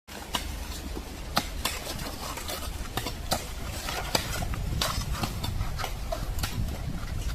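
Hand tools, spades or picks, scraping and clinking irregularly in stony ground as a drainage ditch is dug, over a low steady rumble.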